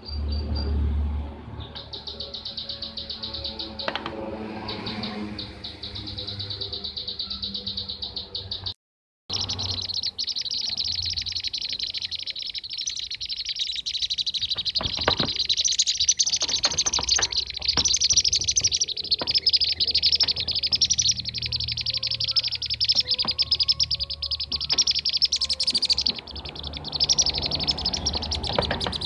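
Bee-eaters (kirik-kirik) calling in a dense, rapid chatter of high trilled chirps, played as a bird-trapping lure recording. The sound cuts out briefly about nine seconds in.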